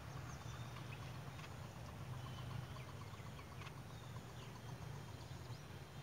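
Faint bird chirps and short whistled notes, a few of them quick downward sweeps, over a steady low hum.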